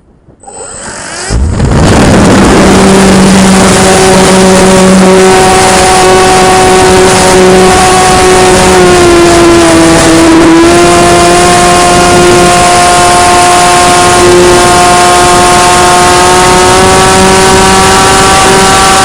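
RC model airplane's motor and propeller, heard up close through an onboard action camera. It throttles up about a second in to a loud, steady whine over wind rush; near the middle the pitch dips briefly and then climbs back.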